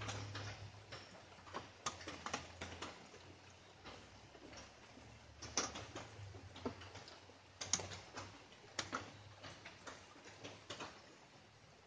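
Light rain: scattered raindrops tapping at irregular intervals, a few of them noticeably louder than the rest.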